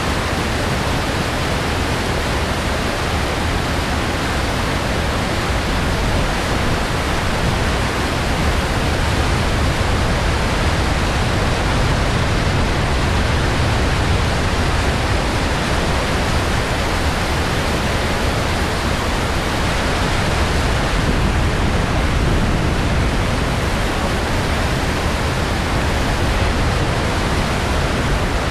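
Steady rush of whitewater pouring through an artificial whitewater rapids channel, an unbroken even roar at a constant level.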